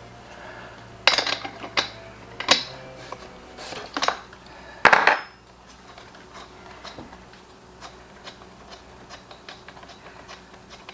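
Metal hand tools clinking and knocking against the blower's engine, five or so sharp knocks in the first five seconds, then a run of light quick ticks, as the spark plug is taken out to check whether the engine is flooded.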